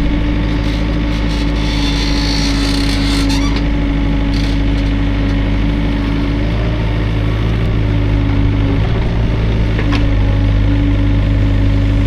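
Hydraulic excavator's diesel engine running steadily under load, with a steady hum over it. A brief high squeal or hiss comes about two to three seconds in, and a sharp click near the end.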